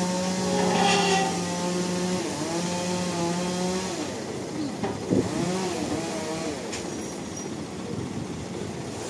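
Motor-driven sawmill saw running, its steady hum dipping in pitch and recovering several times as the load changes, with a sharp knock about five seconds in.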